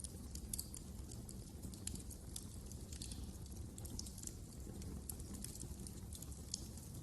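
Fire crackling in a fireplace: many small, irregular pops and snaps over a low, steady rumble of the flames.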